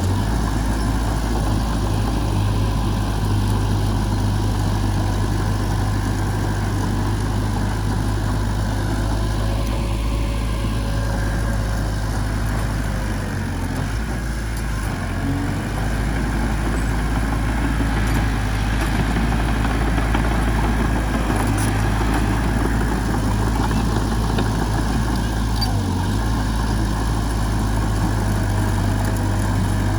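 A heavy diesel engine running steadily at low revs, with its low drone dipping briefly a couple of times.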